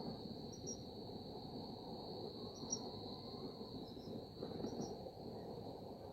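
Insects trilling in one steady, unbroken high drone, with short higher chirps every second or two, over a low background rumble.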